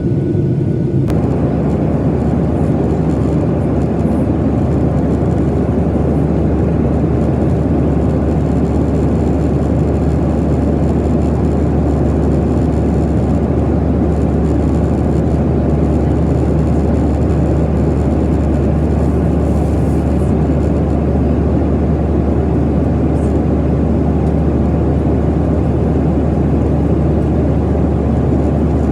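Steady cabin noise inside a Boeing 737-900ER airliner in flight: a constant low drone from the jet engines mixed with the rush of air over the fuselage.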